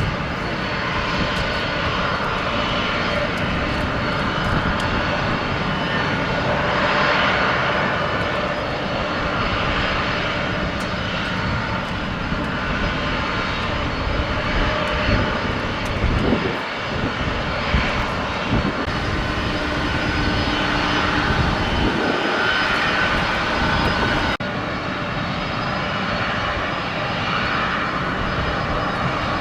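A fixed-wing aircraft's engines running loud and steady, with noise spread across the range and steady whining tones over it. The sound changes abruptly about 24 seconds in.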